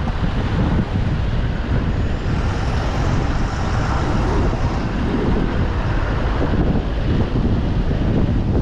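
A car on the move, with the steady rumble of road and engine noise and no clear changes.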